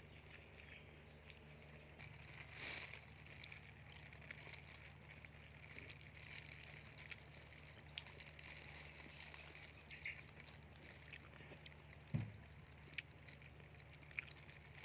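Near silence: a faint steady background hum with a few small clicks and one soft low thump near the end.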